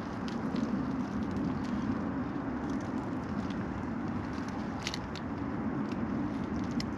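Wood campfire crackling: scattered sharp pops and snaps over a steady low rushing noise, with the loudest cluster of pops about five seconds in.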